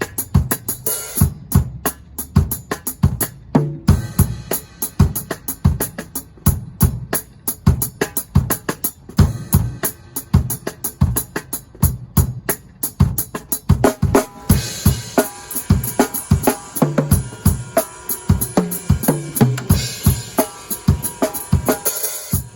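Drum kit played at a steady groove: kick and snare strikes with hi-hat. About two-thirds of the way in, crashing cymbals join and keep washing over the beat until shortly before the end.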